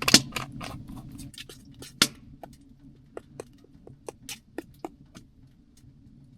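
A run of irregular sharp clicks and snaps over a faint low hiss. They are dense in the first two seconds, then come only every half second or so.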